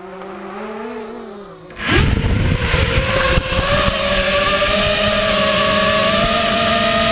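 FPV racing quadcopter's motors spinning at idle with a wavering hum, then throttling up sharply just under two seconds in to a loud, steady propeller buzz whose pitch creeps slowly upward.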